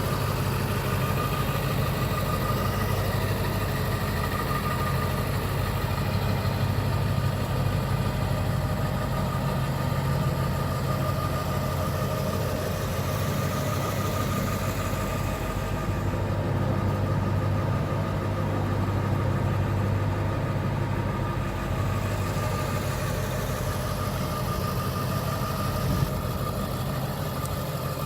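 2002 Ford F-250's 7.3 L Power Stroke V8 turbo diesel idling steadily, with a constant high whine over the low engine note.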